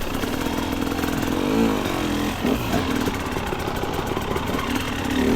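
Two-stroke dirt bike engine running at low revs, with a brief blip of the throttle about a second and a half in.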